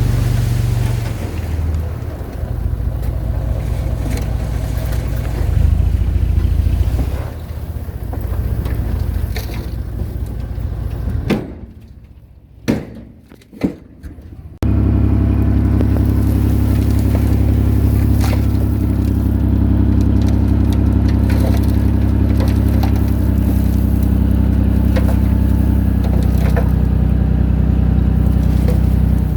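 Diesel engine of heavy earthmoving machinery working, its pitch and load rising and falling. It drops away to near quiet for about three seconds with a couple of knocks, then comes back abruptly and runs steady and loud.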